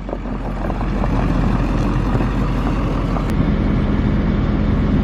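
A motor vehicle's engine running steadily, a low rumble that gives way about three seconds in to a steadier hum with a held tone.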